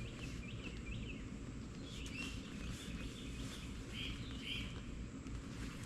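Scattered short bird chirps, a few at a time, over a steady low background rumble.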